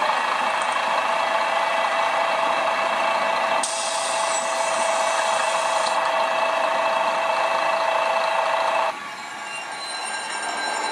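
Recorded freight train running sound played through a small Bluetooth speaker: a steady rushing rumble with several whining tones. The sound changes abruptly about three and a half seconds in and drops sharply about nine seconds in.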